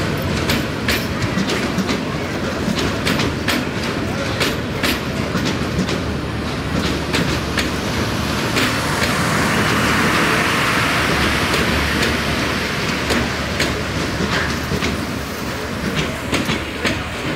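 Passenger train coaches rolling slowly past, a steady rumble with the wheels clicking over the rail joints; a hiss swells and fades midway.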